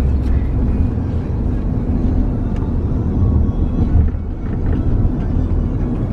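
Steady low rumble of a car in motion, heard from inside.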